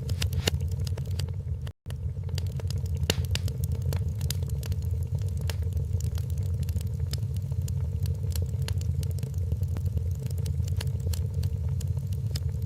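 Wood fire in a fireplace crackling, with frequent sharp pops over a steady low roar of the flames. The sound cuts out for an instant about two seconds in.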